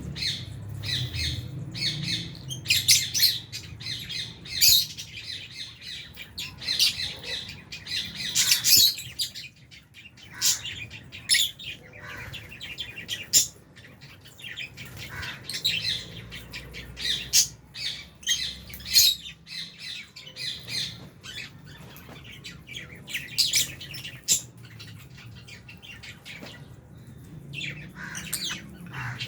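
Flock of Fisher's and albino lovebirds chattering: many short, shrill squawks and chirps, one after another with only brief pauses.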